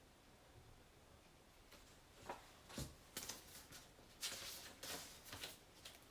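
Faint, brief scratching and rustling noises, several in a row from about two seconds in, over near-silent room tone.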